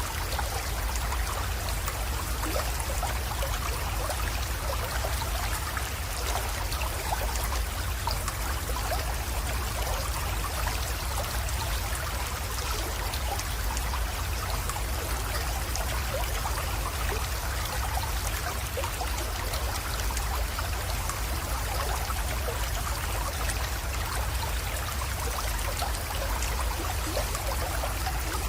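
Small spring-fed creek trickling and splashing into a pond, a steady even rush of running water with fine splashy detail throughout.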